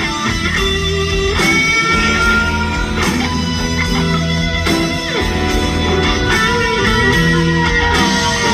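Live rock band music in an instrumental gap between sung lines, with electric guitar to the fore and sustained, bending notes over the band.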